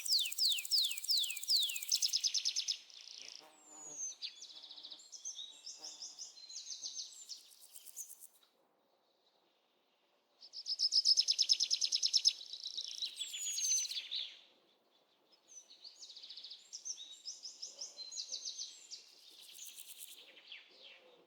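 Several birds calling and singing with high, rapid trills and chirps, starting with a run of quick falling whistles. The calls come in bursts, with a brief lull about halfway through before another round of fast trilling.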